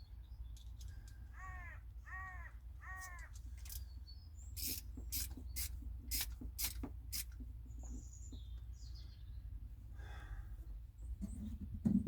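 A bird caws three times in quick succession, followed by a run of about eight sharp clicks and taps over a few seconds, with a thump near the end, all over a steady low rumble.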